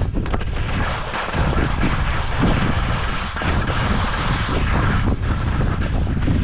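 Strong wind buffeting the microphone, a heavy low rumble with a steady hiss over it.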